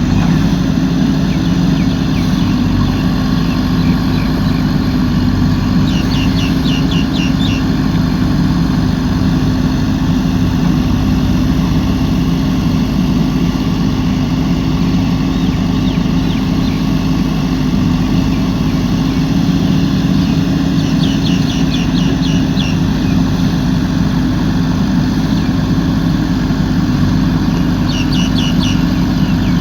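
Diesel engine of a JCB 3DX backhoe loader running steadily, with no clear revving. Short rapid bird trills come through three times, about a quarter of the way in, past two-thirds, and near the end.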